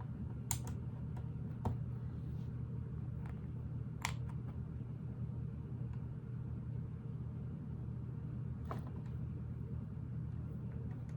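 A few sharp clicks and taps of plastic Lego pieces being handled and pressed into place, over a steady low hum.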